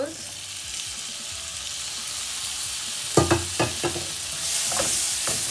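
Chopped tomatoes sizzling in hot oil in a non-stick pan, the sizzle growing louder near the end, with a few quick knocks of the wooden spatula against the pan a little past halfway.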